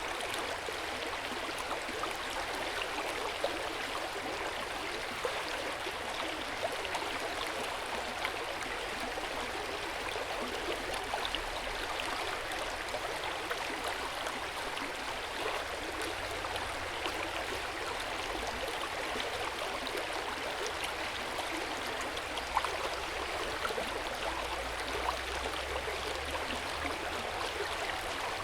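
Hot-spring water flowing into an outdoor rock bath: a steady trickling, splashing wash of water with a few sharper drips scattered through it.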